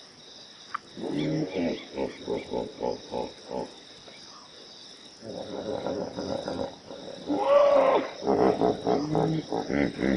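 Lion roaring and grunting in runs of short grunts, about four a second, with the loudest call about three-quarters of the way through.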